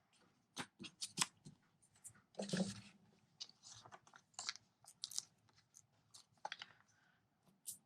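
Hands handling small paper pieces and a sheet of foam adhesive dimensionals: scattered small clicks, taps and paper rustles, with one louder rustle about two and a half seconds in.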